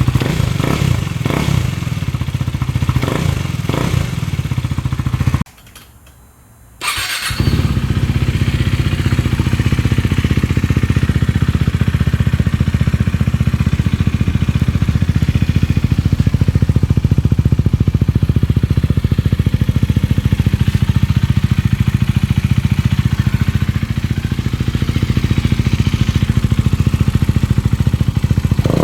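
KTM Duke 390's single-cylinder engine running through its exhaust, blipped a few times in the first seconds. The sound drops away briefly about six seconds in, then comes back as a steady idle.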